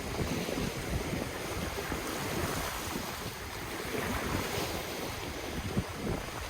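Ocean waves washing onto the shore, with wind buffeting the microphone in low rumbling gusts.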